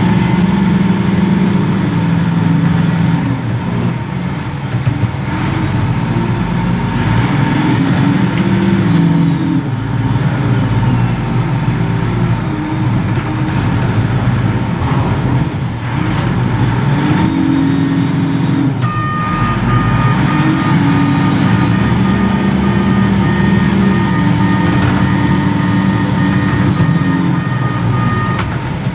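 Reach stacker's heavy diesel engine running and repeatedly revving up and easing off as it works. A steady high two-note tone joins about two-thirds of the way through and stops just before the end.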